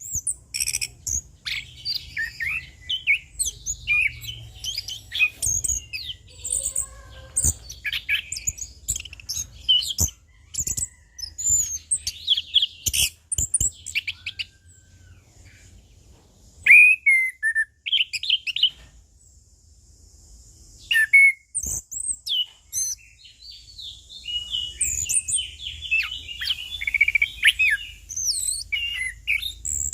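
Orange-headed thrush (anis kembang) singing a long, varied song of quick chirps, trills and whistled phrases, with a couple of brief lulls midway.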